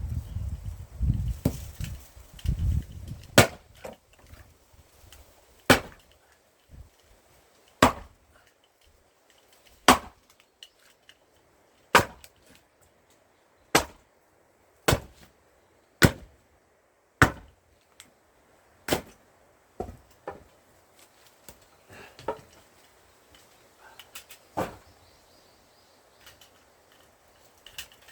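Large hand-forged axe striking pine firewood, about a dozen sharp, separate chops spaced one to two seconds apart, as knotty pine rounds are split with angled glancing blows. A low rumble runs through the first few seconds before the chopping starts.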